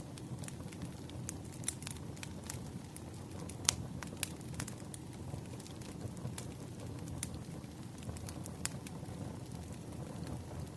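Wood fire crackling: irregular sharp pops and snaps over a low, steady rumble of burning logs, with one louder pop a little over a third of the way in.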